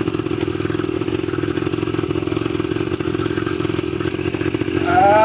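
ATV engine running steadily under way, a constant drone with a fast even pulse. Near the end a louder rising pitched sound comes in over it.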